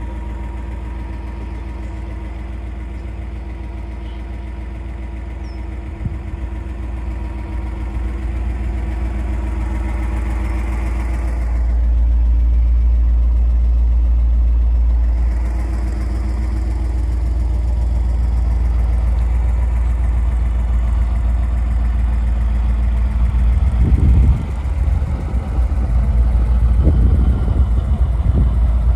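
1957 Ford Thunderbird's V8 engine idling steadily. About twelve seconds in, it turns deeper and muffled for a few seconds. In the last few seconds it turns louder and more uneven, with low thumps.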